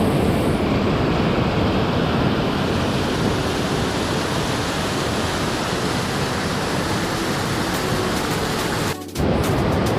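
Rushing water: a loud, steady, even noise of fast-flowing water. It drops out for a moment about nine seconds in, then resumes.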